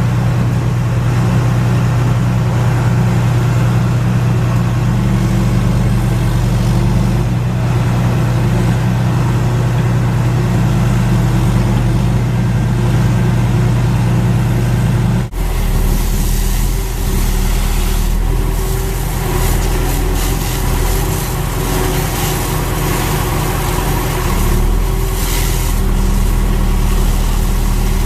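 Fire truck diesel engines idling steadily. About halfway through the sound changes abruptly to a different, lower engine note with more hiss.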